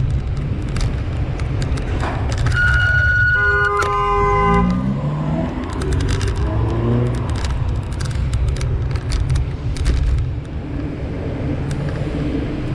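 Steady car road and engine rumble; a car horn sounds for about two seconds a few seconds in, then a vehicle engine speeds up, its pitch rising several times.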